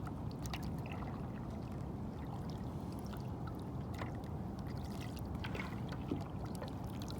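Water lapping and trickling against a kayak as it is paddled, with a few faint light clicks.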